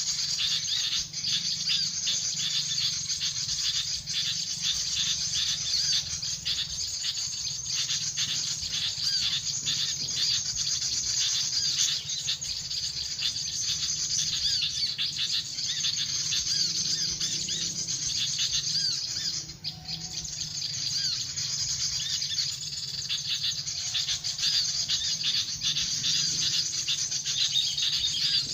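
Dense, continuous high-pitched chirping and twittering of small birds, over a steady low rumble.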